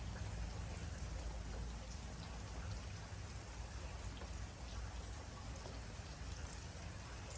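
Steady rain falling, an even hiss with scattered individual drop ticks over a low rumble.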